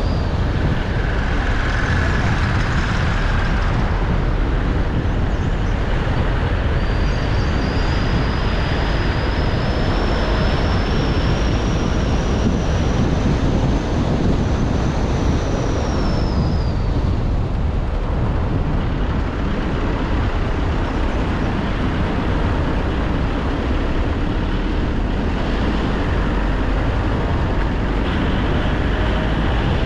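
Car driving on a road, with steady engine and tyre rumble. A faint high whine climbs slowly and then falls away about halfway through.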